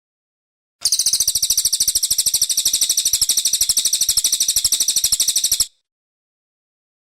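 Brown cililin song: a fast, very high trill of about a dozen notes a second. It starts about a second in and stops abruptly after nearly five seconds.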